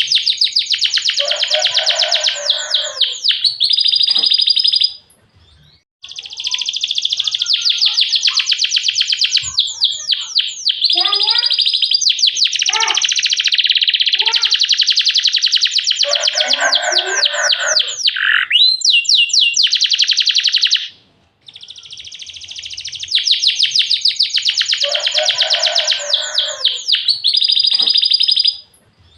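Domestic canary singing long phrases of rapid high trills (rolls) mixed with sharp chirps. The song breaks off briefly about five seconds in and again about two-thirds of the way through.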